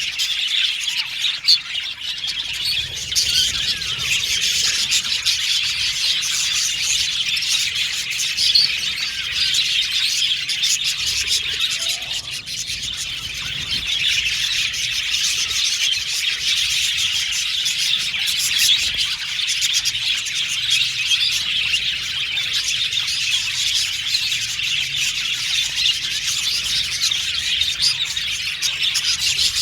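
Budgies (budgerigars) chirping and chattering nonstop, many quick high chirps and warbles overlapping, with a slight lull about twelve seconds in.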